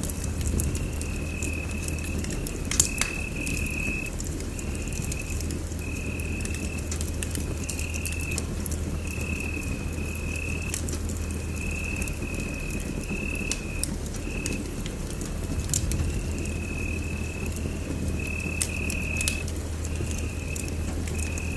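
Wood fire crackling in a fireplace, with scattered sharp pops over a steady low rumble. A thin high-pitched trill sounds on and off throughout in stretches of about a second.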